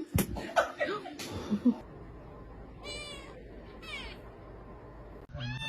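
A domestic cat meowing: two short meows about three and four seconds in, with a few knocks and taps before them and another meow starting near the end.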